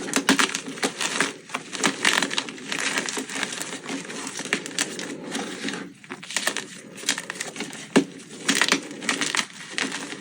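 Blocks of gym chalk being crushed: dense, crunchy crumbling and crackling, with many small snaps and one sharper snap late on.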